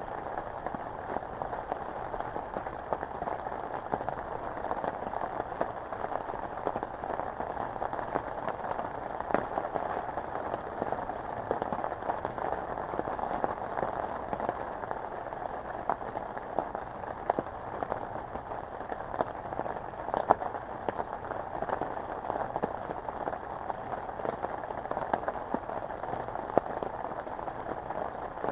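Steady rain falling, with many separate drops ticking through it.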